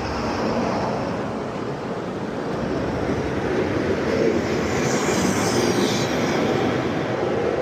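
Roller coaster train running along its track: a steady rumble that grows louder, with a hiss rising over it around the middle.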